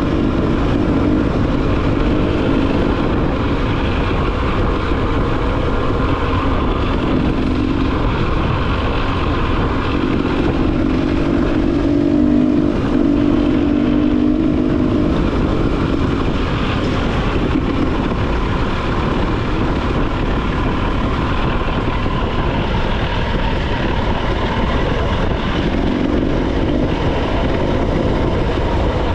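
Motorcycle engine running while under way, its note shifting up and down with the throttle, over steady wind rush on the microphone.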